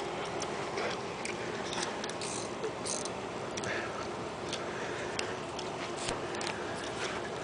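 Scattered, irregular clicks and short rustles of hand tools working on the rear bumper mounting bolts under a pickup truck, over a steady background hiss.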